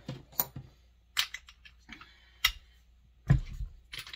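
Hand tools clicking and knocking on a Husqvarna 266SE chainsaw as its spark plug is loosened: about five sharp separate clinks, with one heavier knock and thud a little past three seconds in.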